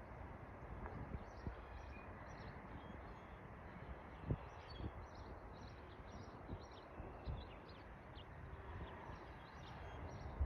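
Small birds chirping, many short high chirps from about two seconds in, over faint outdoor noise with scattered soft low thumps.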